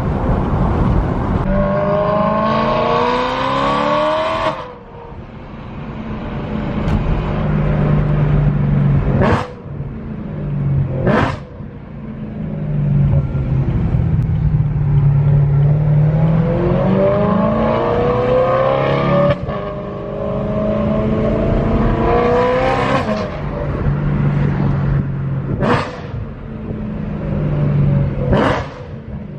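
BMW E92 M3's 4.0-litre V8 through a straight-piped Valvemaster catback exhaust with no resonators, very loud, accelerating hard with its pitch rising and dropping suddenly at gear changes, then cruising. Several short sharp cracks are heard in between.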